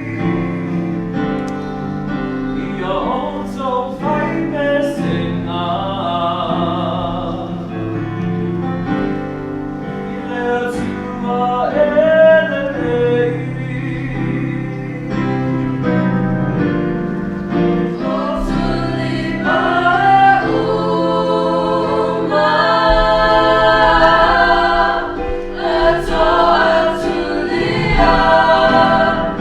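A small group of young voices singing a song together, with long held notes.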